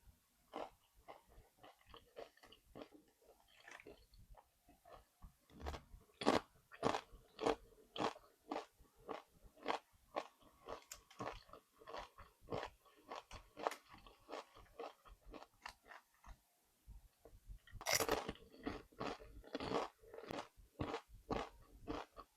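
Close-up chewing of crunchy Doritos-based nachos: a steady run of sharp crunches, with louder runs of crunching bites about six seconds in and again near the end.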